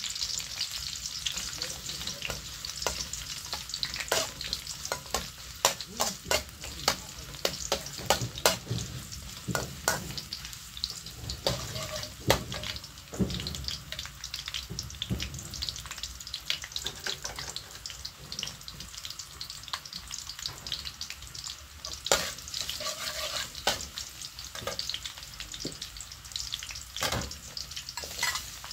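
Oil sizzling in a steel wok as small pieces of food fry, with a metal spatula repeatedly scraping and clicking against the wok.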